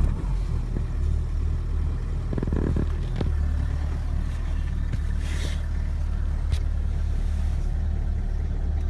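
Renault 1.5 dCi K9K four-cylinder turbodiesel running steadily at idle right after a cold start in about −21 °C frost, with a few brief knocks along the way.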